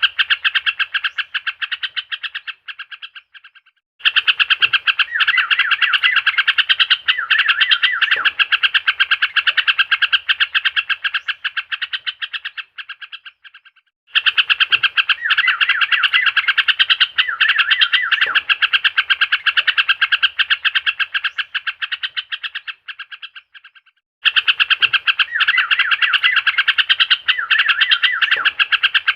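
Looped lure recording of a yellow-vented bulbul (trucukan) singing: dense, fast chattering song that fades out, stops for about a second, and starts again, about every ten seconds. It is played to provoke a bird that has stopped singing into song.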